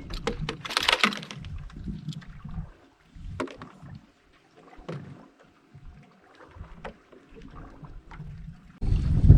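Sounds on a fishing boat: uneven gusts of wind on the microphone and scattered light knocks. Near the end a loud, steady rush starts suddenly and carries on.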